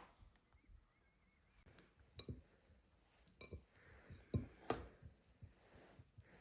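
Mostly quiet room tone broken by a few scattered light clicks and knocks, the loudest two close together a little past halfway.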